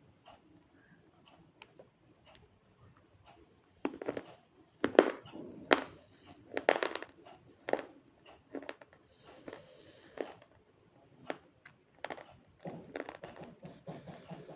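Slate pencil being bitten and chewed close to the microphone: a few faint clicks, then a run of loud, sharp crunches from about four to eight seconds in, and quieter, rapid chewing crunches near the end.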